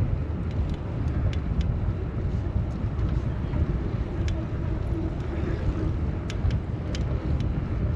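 Steady low rumble of wind and road noise while riding a bicycle through city traffic, with scattered light clicks.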